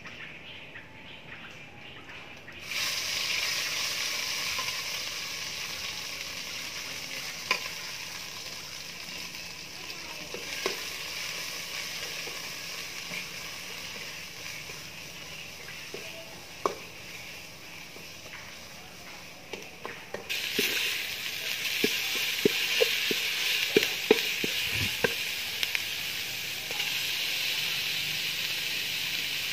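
Spice paste frying in hot oil in a metal pot over a charcoal stove: a steady sizzle starts suddenly about three seconds in and gets louder about twenty seconds in. A ladle clicks and taps against the pot now and then, most often near the end.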